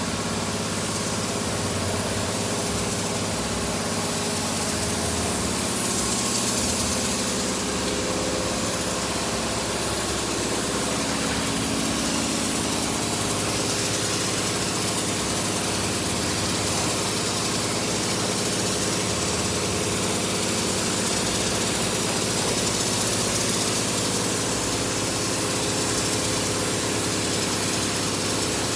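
A compressor-driven spray rig running steadily while gel coat is sprayed: a constant motor hum with an even hiss of air and spray over it.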